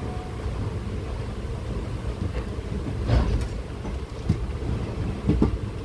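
Passenger train coach heard from on board as it rolls through a station: a steady low rumble of the running gear, with sharp wheel clacks over the rail joints about three seconds in, a little after four seconds, and twice in quick succession near the end.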